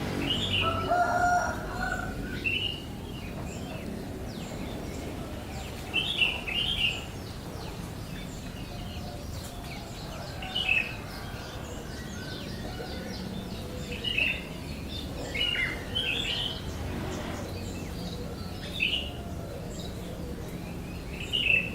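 A bird giving short, high chirps, singly or in quick pairs, every second or few. A lower, longer call comes in the first two seconds.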